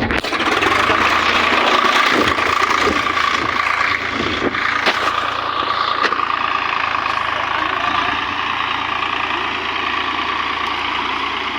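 Tractor diesel engine running loud and steady, easing off slightly about four seconds in.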